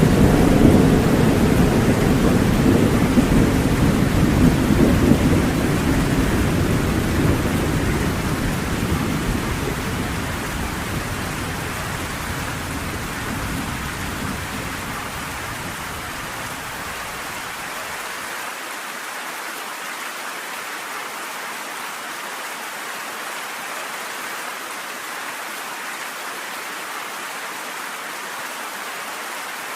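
Heavy rain falling steadily, with a long rumble of thunder at the start that fades away over the first half. After that, only the rain is left.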